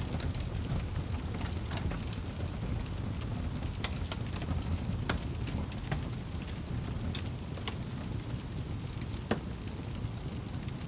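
Wood fire crackling: a steady low rumble of burning logs with frequent small snaps and pops, a few louder pops about four, five and nine seconds in.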